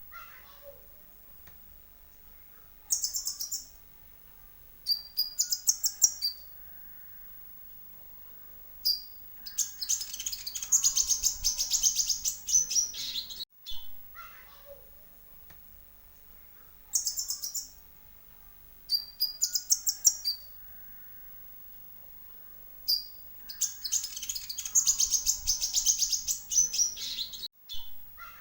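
Lure recording of konin (kolibri ninja) sunbird song: short, very high chirp phrases followed by a long rapid trill, the same sequence repeating about every 14 seconds as a loop.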